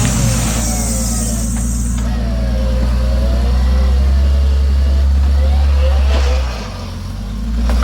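Off-road vehicle engine running hard under load, its rumble steady, then briefly easing about six and a half seconds in before swelling again. A high hiss accompanies it for the first two seconds.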